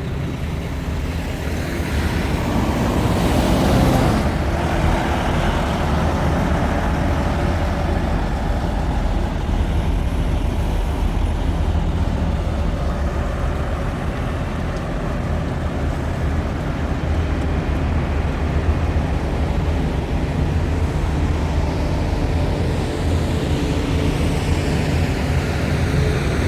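Heavy truck running: a steady low engine drone with road-like noise, swelling louder about three seconds in.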